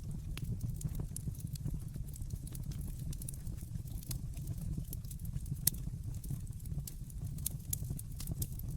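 Wood fire crackling in a fireplace: irregular sharp pops and snaps over a steady low rumble of burning, with one louder pop a little past the middle.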